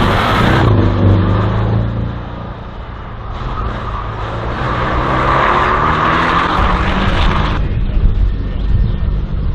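Slalom race car's engine at high revs, falling away about two seconds in, then climbing in pitch as the car accelerates again, and cutting off sharply near the end as the driver lifts or shifts.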